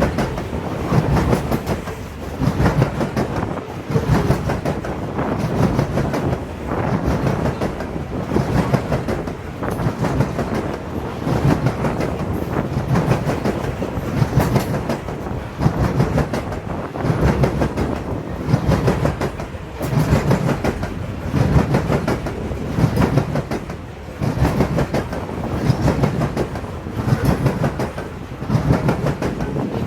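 Loaded coal hopper cars of a freight train rolling past, their wheels clattering over the rails in a steady rhythm of surges about every second and a half.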